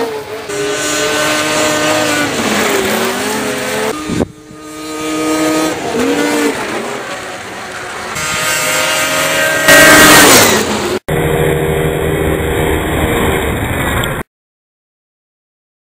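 Electric ducted fans of an RC A-10 Warthog model whining in flight, the pitch rising and falling with the throttle. About 4 s in there is a sudden click and the sound drops away before building again, and it is loudest near 10 s. About 11 s in the sound cuts to a different steady sound, then stops.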